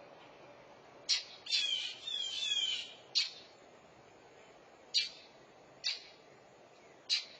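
Northern mockingbirds calling in alarm over a fledgling on the ground: about five short, harsh calls spaced one to two seconds apart, with a quick run of falling chirped notes between the first two.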